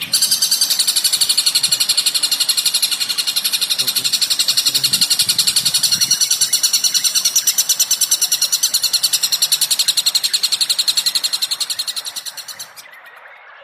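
Recorded songbird call: a long, fast run of evenly spaced high chirps that stops abruptly about a second before the end.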